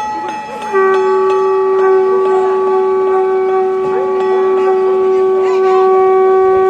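A long, steady horn-like note at one fixed pitch, starting about a second in and held without a break.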